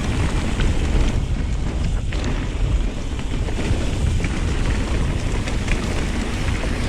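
Wind buffeting the microphone as a mountain bike rides down a trail, a continuous low rumble, with tyre noise and scattered clattering knocks from the bike on the rough ground.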